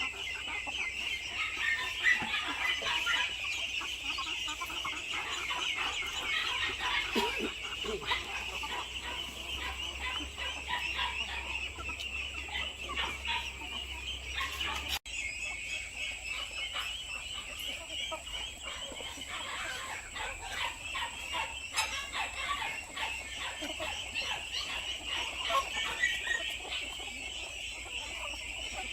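A flock of hens clucking and calling over one another continuously, with a brief break about halfway through.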